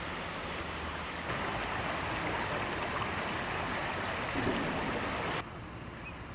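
River water rushing steadily. It grows louder about a second in and cuts off abruptly near the end, giving way to a quieter, duller rush.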